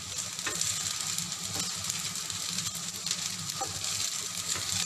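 Fried rice with diced pork-and-ham luncheon meat and mixed vegetables sizzling in a hot pan as a wooden spoon stirs and turns it. A steady hiss carries a few soft scrapes of the spoon.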